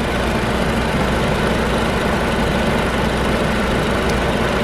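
Vehicle engine idling steadily close by, a constant low hum.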